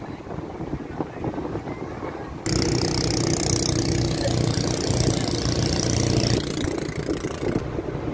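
An engine running steadily, with rushing wind noise. About two and a half seconds in the sound jumps abruptly louder and hissier, with a steady hum, and drops back just before the end.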